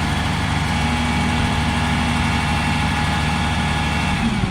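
A motor vehicle's engine idling steadily, a low even hum that drops away near the end.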